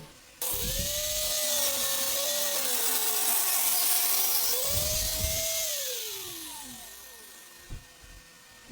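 Angle grinder mounted in a sliding jig, switched on with a sudden start and running with a steady high whine and a loud hissing cut through wood. About four and a half seconds in the whine sags and comes back up, then it falls away as the disc winds down.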